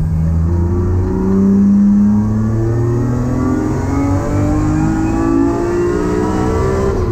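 BMW E30's swapped-in S54 straight-six engine pulling hard under full throttle, its revs climbing steadily for several seconds, heard from inside the cabin.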